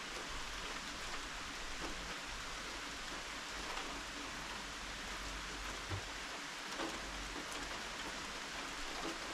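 Steady rain falling, with occasional single drops striking close by and a brief low knock about six seconds in.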